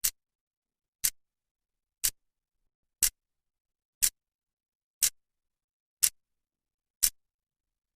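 Clock's second hand ticking, one sharp high-pitched tick each second with dead silence between ticks.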